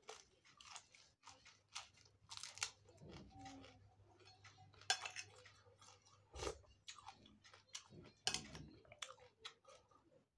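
Close-up chewing and crunching of raw papaya leaves and rujak: many short, crisp bites and chews in irregular succession.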